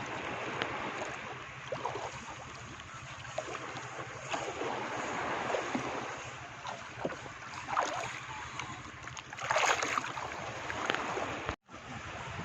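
Speedboat's motor running steadily with a low hum, under water and wind noise on the microphone, with a short louder rush of noise late on.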